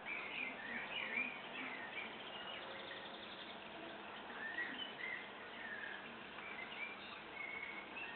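Small birds chirping and warbling in short wavering whistled notes, over a steady hiss.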